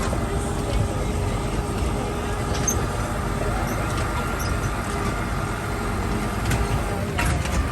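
Steady rumble of a moving vehicle, engine and road noise heard from inside.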